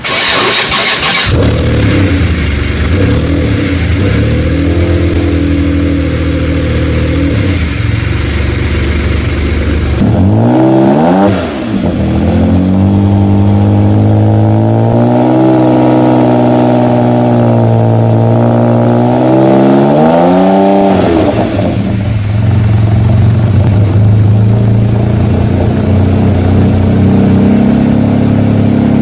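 Jaguar XJ220's twin-turbo V6 starting and catching, then idling. About ten seconds in it gets a quick blip of the throttle, then a longer rev held for several seconds before it drops back to idle.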